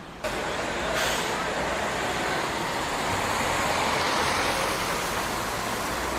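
Steady road vehicle traffic noise: an even rushing hiss with no clear engine note, starting abruptly just after the start.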